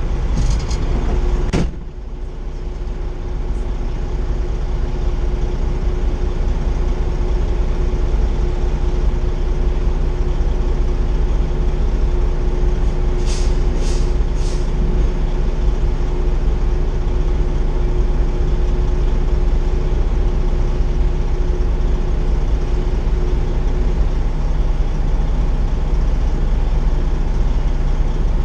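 Semi truck's diesel engine running steadily, with a sharp knock about a second and a half in and three short hisses about halfway through.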